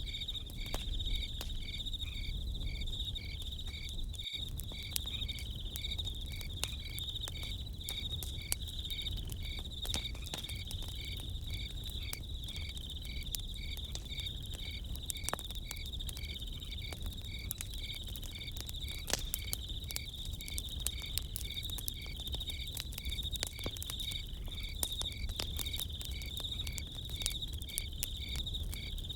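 Crickets chirping in a steady, continuous pulsing trill, with the scattered sharp pops of a campfire crackling over a low rumble.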